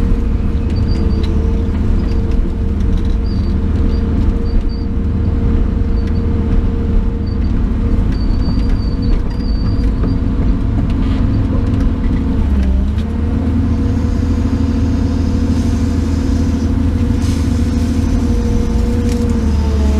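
Diesel engine of heavy equipment moving brush, running steadily under load, its pitch dipping briefly about two-thirds of the way through and then recovering.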